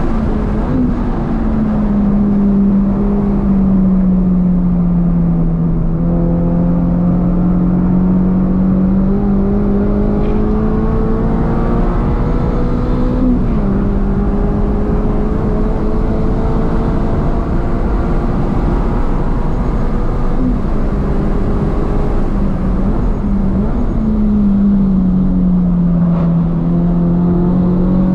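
Toyota GR86's 2.4-litre flat-four, with a titanium single-exit exhaust, running hard at high revs as heard from inside the cabin. Its pitch sags and climbs slowly as the revs change, with a few sudden upward jumps in pitch, over a steady rumble of road and tyre noise.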